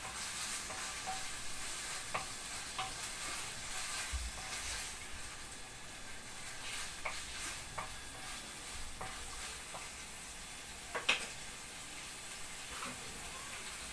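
Beef liver strips and pieces of fat sizzling in hot oil in a nonstick frying pan, with scattered light clicks and scrapes as a wooden spoon stirs them. One sharper knock about eleven seconds in.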